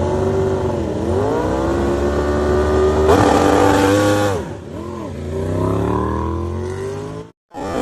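Racing motorcycle engine at high revs, its pitch falling, holding, then climbing again through the gears, with a rush of noise about three seconds in. The sound cuts off suddenly near the end.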